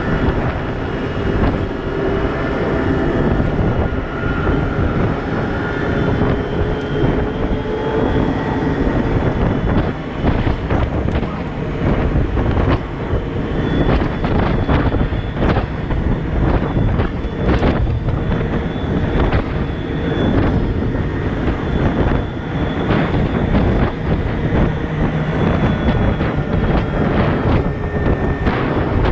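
Cat 972M XE wheel loader working: steady, loud diesel engine and drivetrain noise with whining tones that shift in pitch, overlaid from about a third of the way in by many sharp knocks and clatters.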